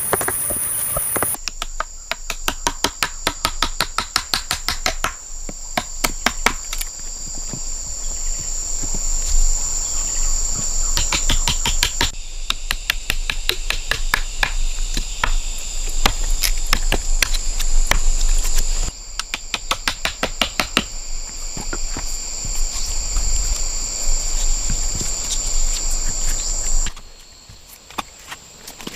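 A steady, high insect drone under quick, repeated sharp knocks, several a second, like tool strikes. The mix changes abruptly a few times, near the end dropping to a quieter, sparser stretch.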